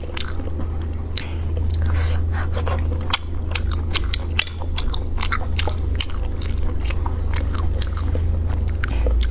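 Close-miked chewing, biting and wet lip smacks while eating spicy shellfish, with many sharp clicks scattered throughout, over a steady low hum.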